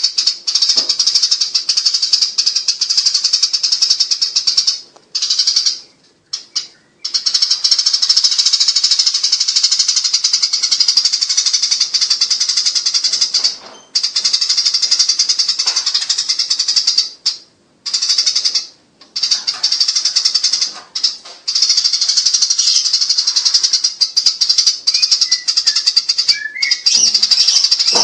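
Eurasian tree sparrows chattering in rapid, unbroken runs of high twittering, the agitated chatter of sparrows fighting, broken by a few short pauses.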